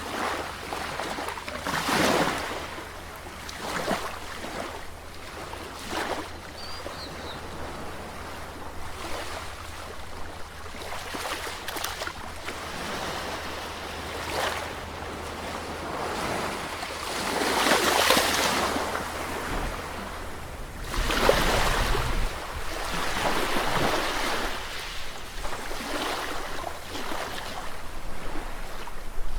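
Sea waves washing in and breaking, a steady wash of surf that swells every few seconds. The longest and loudest surges come about two-thirds of the way through, the last with a low rumble.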